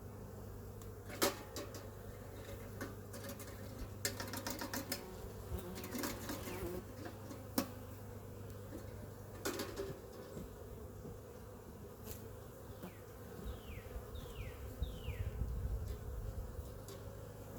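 Honeybees buzzing steadily around an open hive, with scattered sharp clicks and knocks. A few short falling chirps come near the end.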